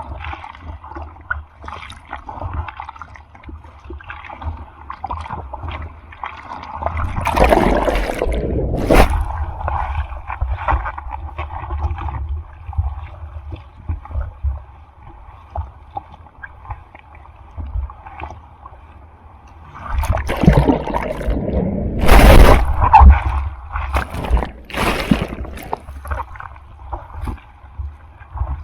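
Sea water sloshing and gurgling close to the microphone as a surfer is out in rough typhoon surf, with two louder rushes of splashing water, about 7 seconds in and again from about 20 seconds in.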